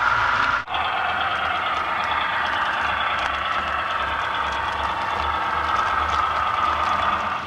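HO scale model locomotive running on the layout: a steady mechanical running sound with a whine over a low pulsing hum. It drops out briefly under a second in.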